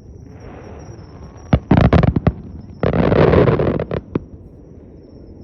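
Fireworks shells bursting overhead: a quick cluster of sharp bangs, then a dense crackling burst lasting about a second, followed by two more sharp cracks.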